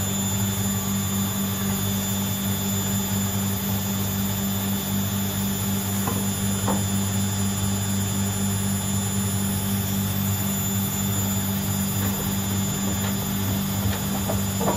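Washing machines running, a steady motor hum with a low drone and a few faint ticks about six seconds in.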